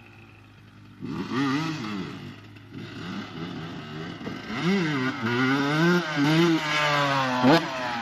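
A 2001 Honda 125 dirt bike's engine is revved up and down over and over, with the pitch rising and falling. It starts about a second in after a quieter stretch, and there is a sharp, high rev near the end.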